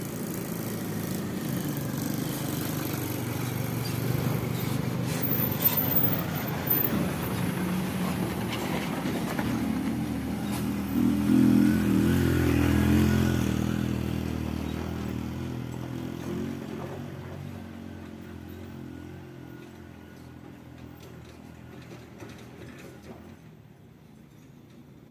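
Heavy sand truck's diesel engine running under load on a steep incline. It grows louder to a peak about halfway through, with a few sharp knocks around six seconds in, then fades steadily as the truck moves away.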